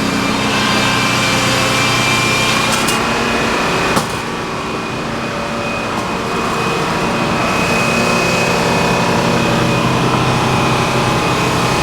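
Sawmill machinery running steadily: an engine hum with a thin, steady high whine over it. A sharp click about four seconds in, after which the sound drops slightly quieter.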